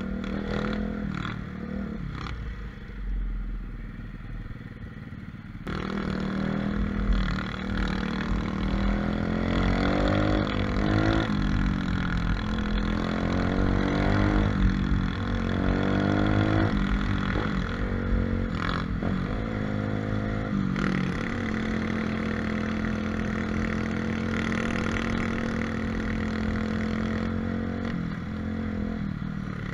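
125cc pit bike engine running. It is lower for the first few seconds, then revs up and down again and again, and settles to a steadier drone for the last several seconds.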